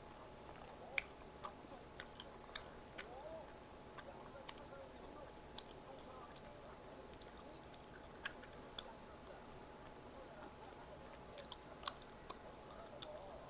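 Close-miked chewing and biting of food, with scattered sharp crisp clicks and crunches in two clusters, near the start and near the end.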